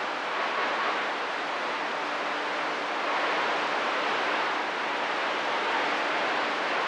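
Radio receiver hiss: steady band noise from an open channel between transmissions, with faint steady tones underneath.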